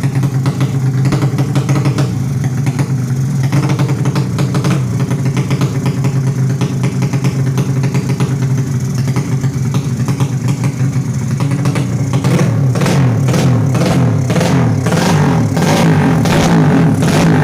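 Yamaha Jupiter Z drag bike's 200cc four-stroke single 'sleep engine' running on its racing exhaust during warm-up: a loud, steady fast idle. About twelve seconds in it gets louder and turns into a quick, regular pulsing.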